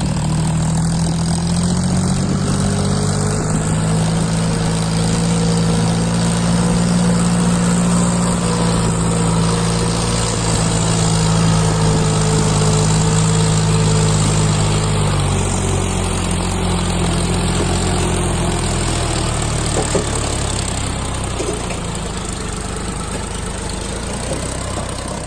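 Diesel tractor engine running steadily, its pitch dropping a little about fifteen seconds in.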